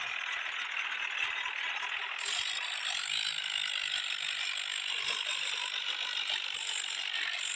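A continuous fast ratcheting clatter of a mechanism, like gears or a pawl clicking rapidly, turning brighter and sharper about two seconds in.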